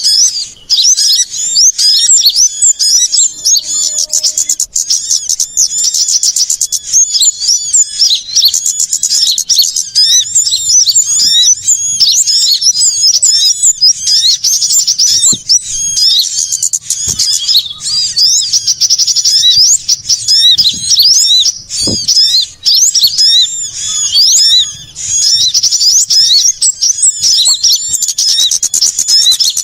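A dense, noisy chorus of many small birds chirping and twittering rapidly and without pause, a mix of small-bird calls made as a bird-trapping lure.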